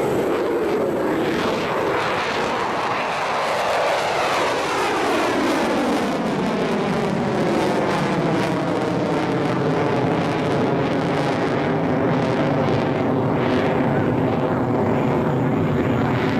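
Mitsubishi F-2 fighter's single General Electric F110 turbofan running loud and steady as the jet moves past, its tone sweeping in a shifting whoosh.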